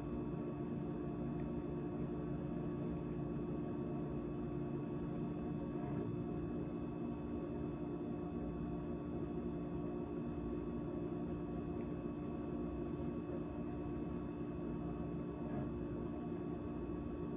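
GE GTH18XCTZRBB refrigerator running after its defrost heat mode: a steady hum made of several steady tones over a low rumble.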